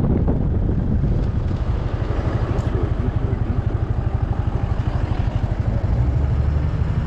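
Yamaha Majesty 400 scooter's single-cylinder engine running at low speed, its exhaust pulsing in an even beat. Wind buffets the microphone at the start.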